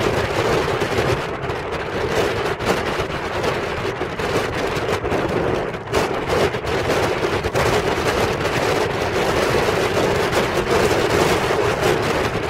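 Strong wind buffeting the microphone in rapid, irregular crackling thumps, over the steady wash of large waves breaking on the shore.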